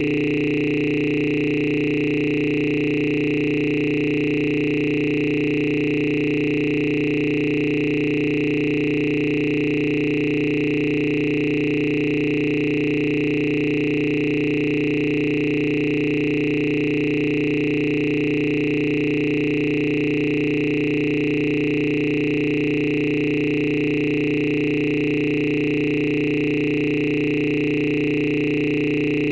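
A steady electronic drone of several held tones, low, middle and high, sounding together without any change.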